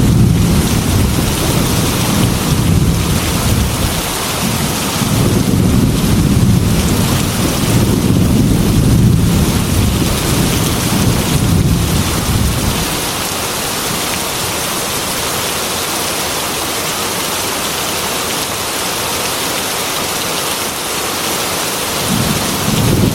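Heavy rain hissing steadily on a glass window, with a low rolling rumble of thunder that dies away about halfway through and comes back near the end.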